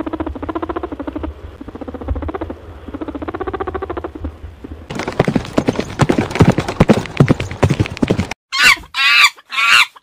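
A rapid pulsing, buzzing animal call with a wavering pitch, from a rabbit. After about five seconds it gives way to a horse's hooves splashing through shallow water in quick strikes. Near the end come three short, loud, shrill calls from a baboon.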